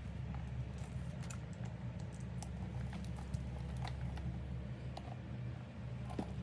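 Scattered light clicks and taps from a handbag and its hardware being handled, over a steady low hum.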